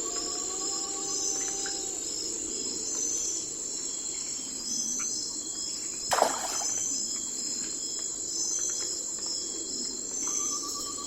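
Night forest ambience of crickets and other insects chirping in a steady, high, pulsing chorus. A fast trill and a soft rising whistle sound at the start, a short loud falling call about six seconds in, and the trill returns near the end.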